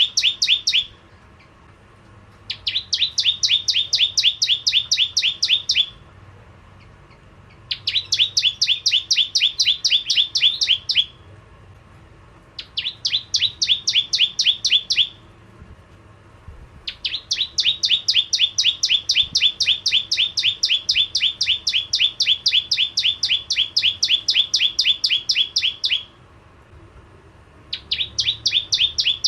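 Bar-winged prinia (prenjak jawa) singing. It gives loud bursts of rapid, evenly repeated high chirps, about eight a second, each burst lasting a few seconds, with short pauses between them and one long burst of about nine seconds past the middle.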